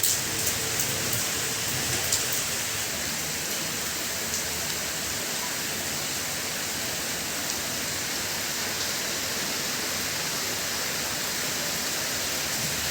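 Steady rain falling, an even hiss, with a few sharper drips or taps in the first two seconds or so.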